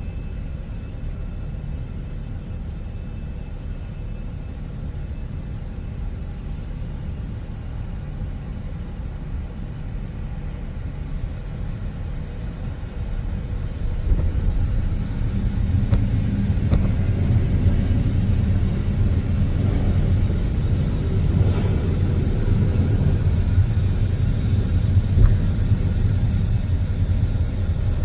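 Jet airliner engines rumbling, growing louder about halfway through.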